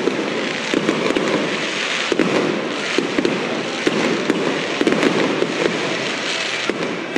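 Aerial fireworks shells bursting in quick succession: a steady run of sharp bangs, one or more a second, with continuous crackling between them.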